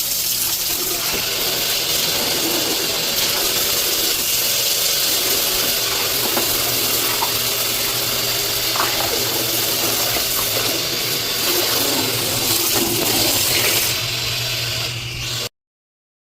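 Water rushing and splashing steadily, with a few small clicks, until it cuts off suddenly near the end.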